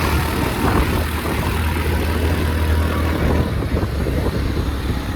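Motor vehicle engine running steadily, a continuous low hum with road noise over it.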